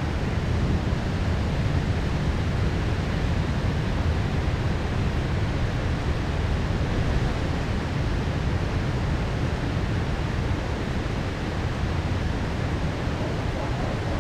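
Heavy rain downpour falling steadily: an even hiss with a deep low rumble underneath and no sharp thunderclaps.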